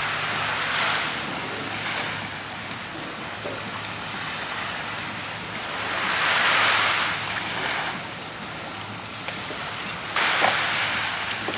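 Sea waves breaking and washing in, in repeated surges of rushing water: one about a second in, a louder one around the middle, and one that starts suddenly near the end.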